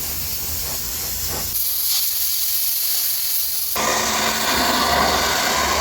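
High-pressure washer spray hissing. The hiss thins to a high, airy sound about a second and a half in, then comes back fuller and louder a couple of seconds later.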